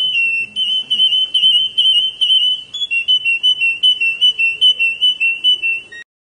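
A bird's fast, high warbling trill, stepping quickly between two close pitches with many notes a second, that cuts off abruptly near the end.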